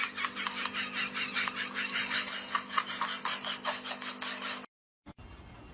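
Rapid, scratchy rasping strokes, about five a second, over a steady low hum, cutting off abruptly near the end.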